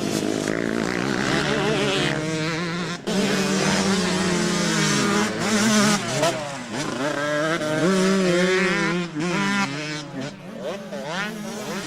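Several motocross motorcycle engines revving at once, their pitch repeatedly climbing and dropping as the riders open and close the throttle and shift gears.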